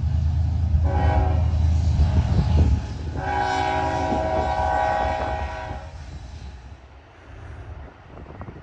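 Union Pacific diesel locomotives passing with a heavy engine rumble while the air horn sounds a chord, first a short blast and then a longer one of about two and a half seconds. After the horn the sound drops to the quieter rolling of the train's cars with scattered clicks.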